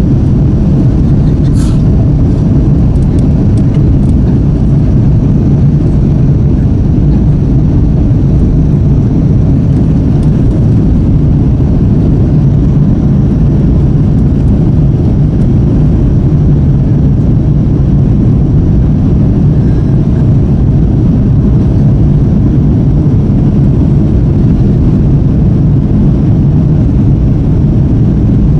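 Cabin noise of a Boeing 777-200ER with Rolls-Royce Trent 892 jet engines running at high thrust during takeoff and climb: a loud, even low rumble, with a few faint clicks a couple of seconds in.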